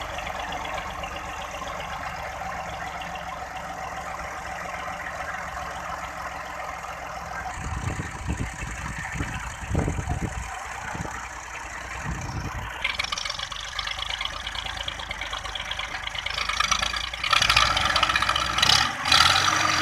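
Tractor engine running steadily, then with uneven, louder surges in the second half.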